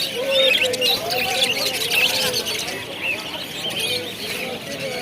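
Many small caged birds chirping and tweeting at once in a dense, unbroken chorus, with people's voices underneath.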